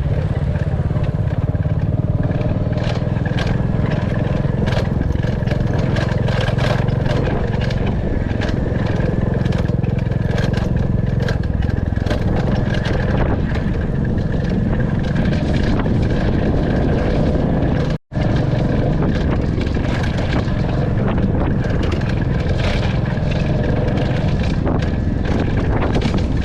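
Royal Enfield Classic 350 single-cylinder engine running steadily while riding, with many short clicks and knocks over the engine sound. The sound cuts out for an instant about two-thirds of the way through.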